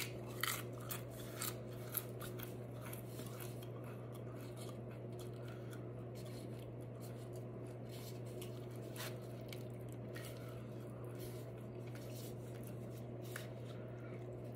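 A person eating: a few sharp crunches of a tortilla chip in the first two seconds, then soft chewing and small scattered clicks over a steady low hum.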